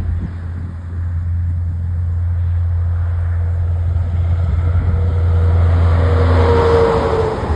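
Heavy truck's diesel engine labouring up a hill, a deep steady rumble that grows louder as the truck draws near and passes, loudest about six to seven seconds in.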